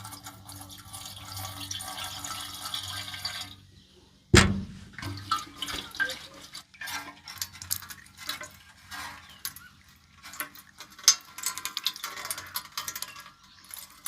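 Water running and splashing, then dripping and clinking with one loud knock about four seconds in, as the rusty fuel tank of a Honda Leader scooter is rinsed out.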